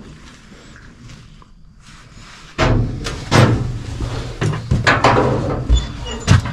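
A string of heavy knocks and thumps on metal inside an old locomotive, starting suddenly about two and a half seconds in after a quieter stretch.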